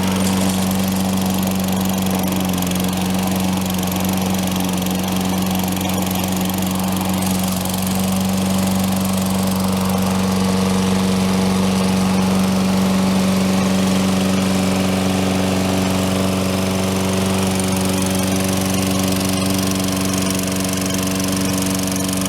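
Toro Recycler mower's Tecumseh single-cylinder engine running steadily at speed, after a no-start traced to very low oil and weak compression; it runs smoothly now.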